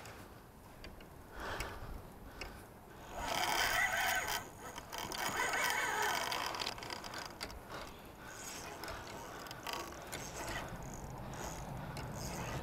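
Fishing reel ratcheting under a kingfish's pull, in bursts, the longest about three and five seconds in.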